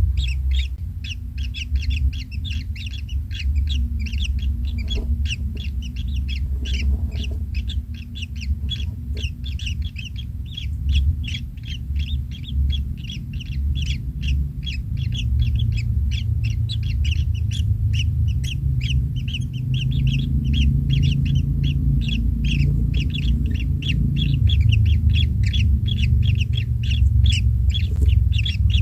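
Kingfisher nestlings cheeping, a rapid, unbroken run of short high calls, several a second, with a low rumble underneath.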